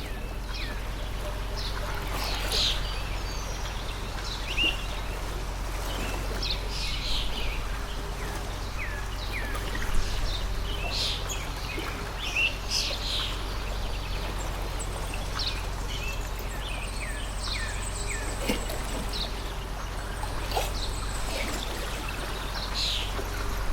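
Water stream flowing steadily, with small birds chirping over it in many short, quick notes.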